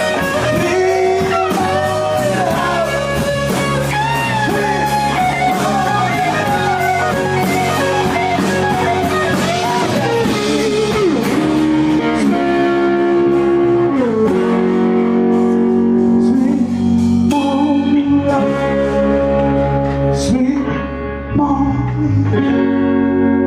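Blues-rock band playing live: electric guitar, bass and drums with a sung vocal line, then the drums thin out and long guitar chords are held and left ringing as the song winds down.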